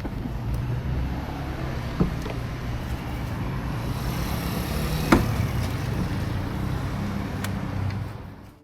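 Royal Alloy scooter running on the move, heard from on board as a steady low engine rumble mixed with road and wind noise. Sharp clicks come about two and five seconds in, the second the loudest, and the sound fades out near the end.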